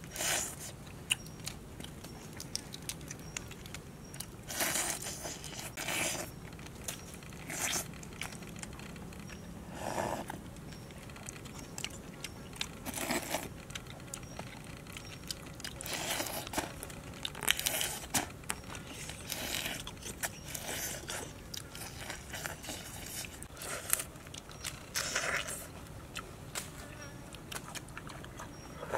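Close-up crunching bites and chewing through a mantis shrimp's shell, in irregular bursts every second or two with small sharp clicks between them.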